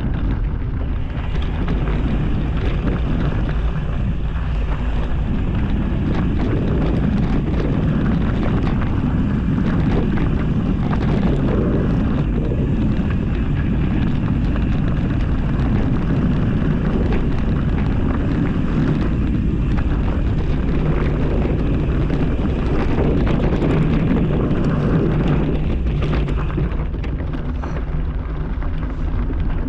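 Steady wind rumble on the microphone while riding a trail, with a faint steady hum underneath and scattered small ticks.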